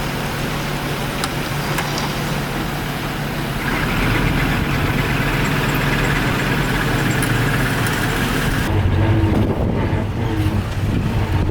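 Heavy diesel engine of earthmoving machinery running steadily. A higher whine joins about four seconds in. Near the end the sound drops to a duller, lower rumble.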